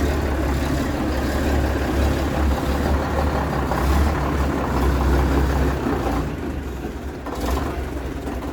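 Bus engine running close by: a steady low rumble that eases off about six seconds in.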